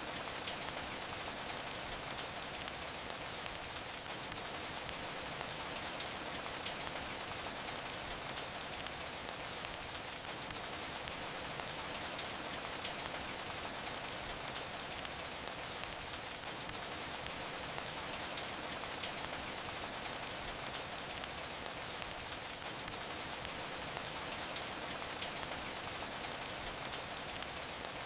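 Steady rain, an even hiss, with scattered sharp crackles of a wood fire in a fireplace, a few every couple of seconds.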